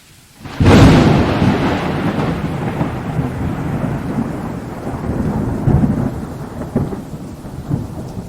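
A sudden close thunderclap about half a second in, followed by a long low rumble that swells again a few times and slowly fades, over steady rain.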